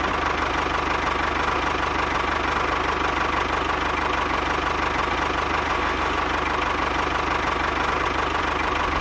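Small motor of a DIY miniature construction machine running steadily at a constant speed, with a fast low pulse and a thin steady whine.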